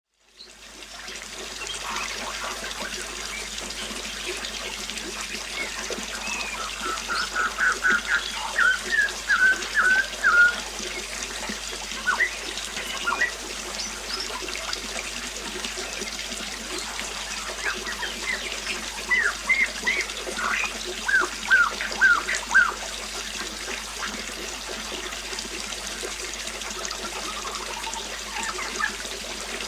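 Water trickling steadily, with a bird calling in quick runs of short notes, once about seven seconds in and again around twenty seconds in.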